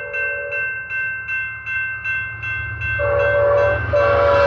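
A grade-crossing warning bell rings at about two and a half strokes a second while an approaching Amtrak train blows its horn: one blast ends about half a second in, then two more begin about three seconds in, the second running on as the train's noise grows louder.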